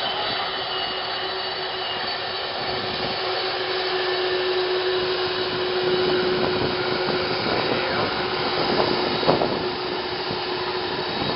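Jet airliner engines running: a steady rushing noise with a held whine that fades near the end.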